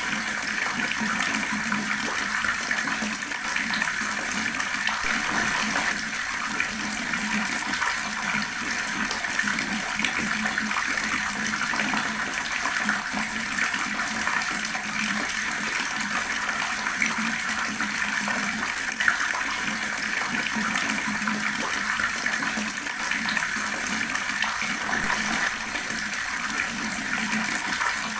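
Water gurgling steadily from a running tap.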